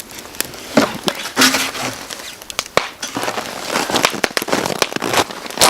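Steak searing in a hot pan over a campfire: hissing sizzle that comes in waves, with many sharp pops of spattering fat, and the wood fire crackling along with it.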